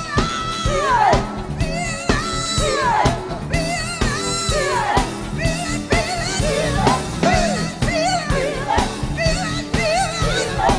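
Funk band playing a steady drum-and-bass groove, with long high notes that slide down in pitch about every two seconds, followed by shorter wavering phrases.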